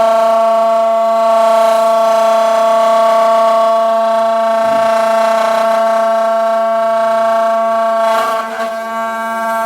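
A home-made CNC router's spindle runs with a steady, loud whine while the machine cuts a spiral on its rotary fourth axis. The pitch wavers and dips briefly near the end.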